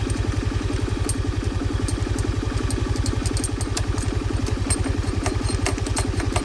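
Motorcycle engine idling steadily, with irregular sharp clicks over it, most of them in the second half. The strange noise is put down to a broken rear shock absorber.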